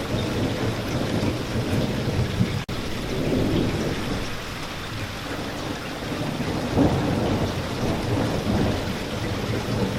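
Steady heavy rain with a low, rolling rumble of thunder underneath that swells and fades. A brief split-second dropout comes a little under three seconds in.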